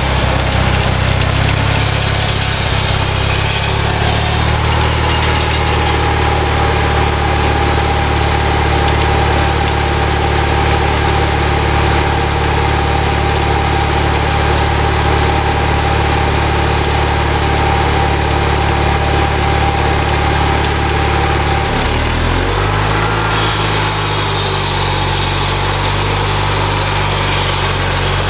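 Small lawnmower engine running steadily, driving a homemade sawmill, with a steady whine from the mill's drive. About 22 seconds in, the whine stops and the engine's note shifts.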